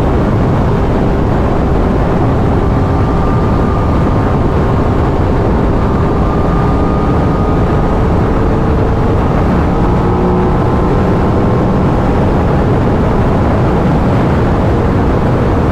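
Wind rushing over the microphone at highway speed, with the 2023 Aprilia RS 660's stock-exhaust parallel-twin engine holding a steady drone underneath.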